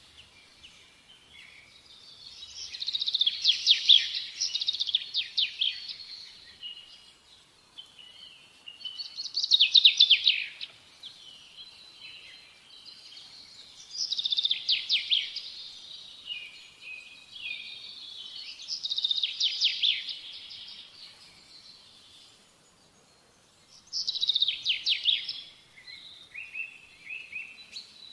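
A bird singing: short phrases of fast, high trilled notes repeated about every five seconds, with softer chirps in between.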